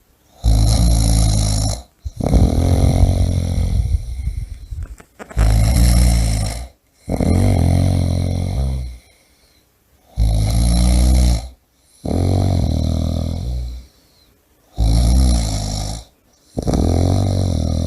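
A person snoring loudly through four breaths. Each breath is a short, loud, rattling snore followed by a longer, slightly softer one, with brief pauses between.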